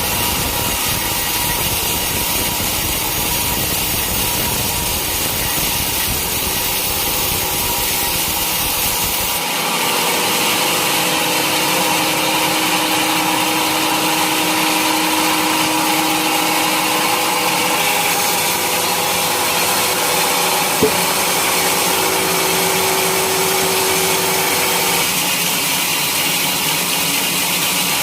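Sawmill saw running steadily and cutting through a teak log: a constant noisy whir. About nine seconds in the deep rumble drops away and steady humming tones come in over the noise. There is a single sharp click about two-thirds of the way through.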